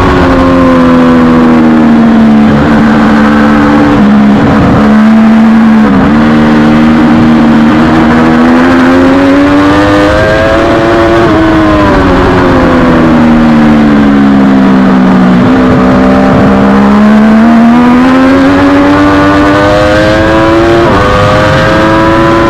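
Triumph Daytona 675R race motorcycle's inline three-cylinder engine at racing revs, heard onboard. Its pitch falls over a few seconds as the bike slows, climbs again under acceleration with brief dips at the gear changes, and does this twice.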